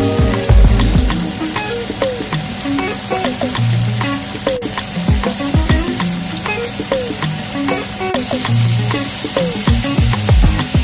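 Sliced scarlet gourd (ivy gourd) sizzling in a hot pan and being stirred, with scraping clicks from the spatula, under background music with a bass line and a repeating beat.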